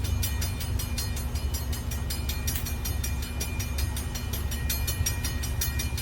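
CSX freight train rolling past: a steady low rumble with a rapid, even run of sharp clicks from the wheels and cars.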